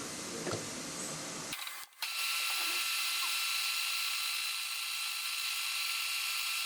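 Valve-seat boring machine running steadily, its cutter boring the seat pockets in a cylinder head, with a faint steady whine. The sound drops out briefly about two seconds in and resumes more evenly.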